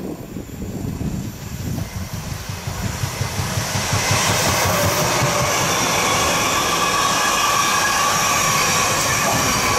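Intermodal freight train hauled by a Siemens Vectron electric locomotive passing at speed. The rolling noise builds over the first few seconds and then holds steady as the wagons go by, with a thin ringing tone from the wheels over it.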